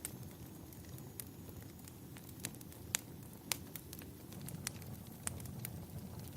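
Wood fire in a fireplace crackling, with irregular sharp pops over a low steady rumble; two louder pops come near the middle.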